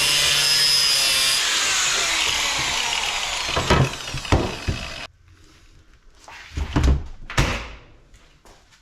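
Power tool cutting into metal: a loud, steady grinding noise that stops abruptly about five seconds in, followed by a few knocks.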